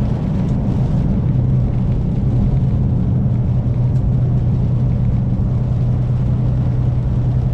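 Semi truck's diesel engine droning steadily with road noise while driving, heard from inside the cab, with a constant low hum.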